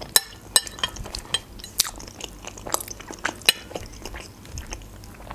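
Close-miked chewing of a mouthful of manti, a meat-filled steamed dumpling: a string of sharp, irregular mouth clicks and smacks.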